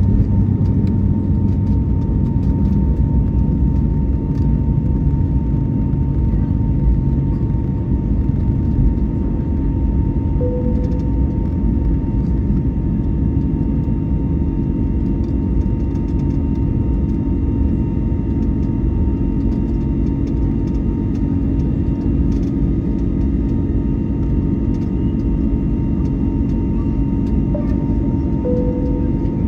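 Steady jet engine and airflow noise heard inside the cabin of an Airbus A321neo in flight: a continuous low rumble with a steady hum on top.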